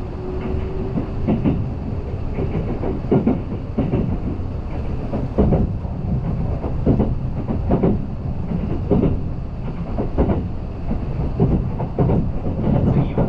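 Kintetsu Ise-Shima Liner (23000 series) electric limited express under way, heard from inside the carriage: a steady running rumble with a regular clickety-clack of the wheels over rail joints, a click roughly every second or less.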